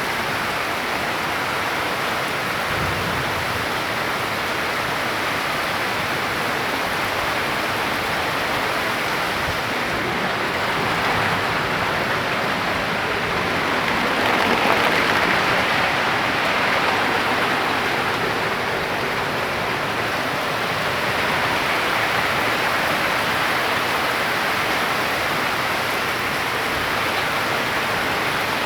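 Heavy tropical downpour pouring steadily, a dense hiss of rain that swells louder for a while around the middle.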